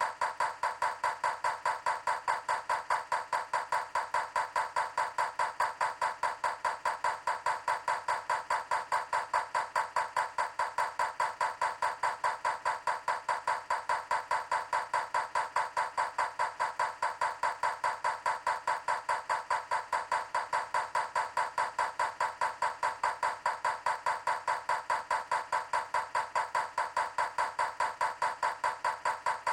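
Steady, very regular tapping or knocking, about three strikes a second, unchanging throughout.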